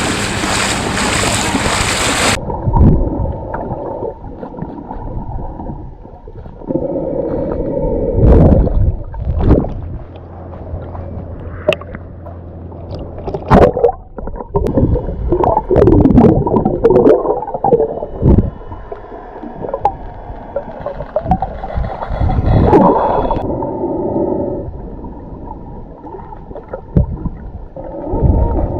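Surf for the first two seconds, then muffled underwater sound: gurgling, bubbles and water rushing around a submerged camera as a snorkeler moves, with several sharp knocks or splashes.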